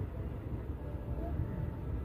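Moving passenger train heard from its open doorway: a steady rumble of the running train, with wind buffeting the microphone in an uneven low flutter.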